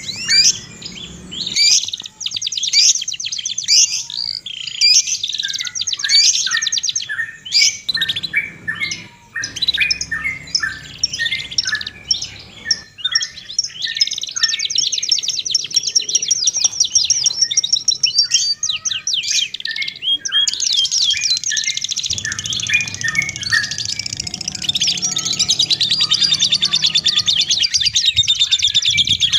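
Small songbird singing in quick high chirps and whistled notes, breaking into a long, rapid, continuous trill about two-thirds of the way through.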